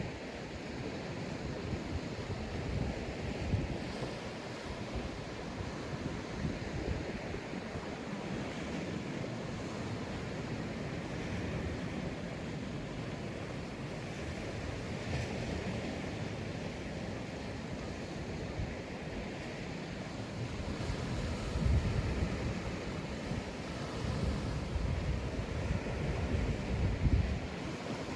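Sea waves breaking and washing on a sandy beach in a steady surf, with wind buffeting the microphone in low gusts over the last several seconds.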